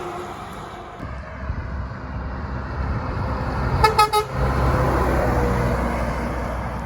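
A truck passing with its engine and road rumble building, sounding two short blasts on its horn about four seconds in.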